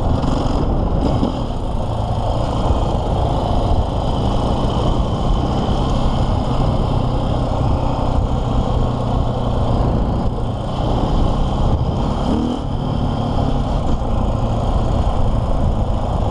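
KTM EXC 450's single-cylinder four-stroke engine running steadily under the rider, heard from onboard the bike, with little change in engine speed.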